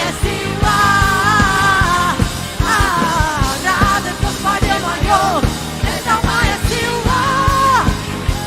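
Worship band music with a steady drum beat and bass under long, wavering held melody notes.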